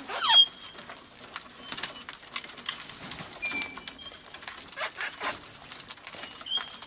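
Parrots calling while being hand-fed: a loud squawk that falls sharply in pitch right at the start, then a few short high whistles, over a steady run of small clicks.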